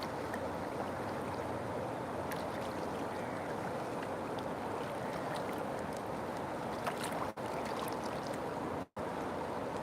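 River water flowing steadily with a few faint ticks and splashes; the sound cuts out for an instant twice near the end.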